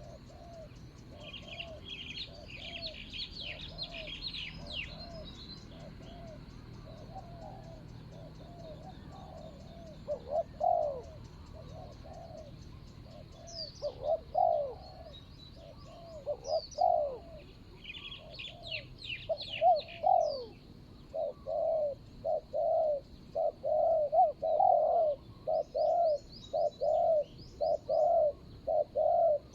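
Spotted doves cooing: a long run of short, repeated coos that come faster and louder in the last third. Small birds chirp in higher trills near the start and again about two-thirds of the way through.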